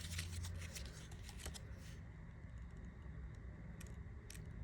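Pages of a thin paper guidebook being turned and handled: a run of light papery rustles and clicks in the first two seconds, then sparser, quieter handling.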